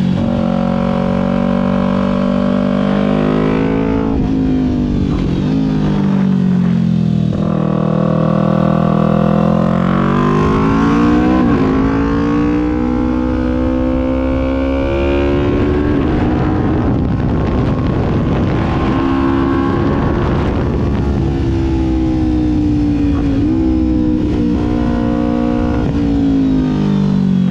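Kawasaki Ninja 400's parallel-twin engine under way, its note rising and falling with throttle and gear changes. It dips twice early on, climbs steadily for several seconds past the middle, holds, then drops off near the end.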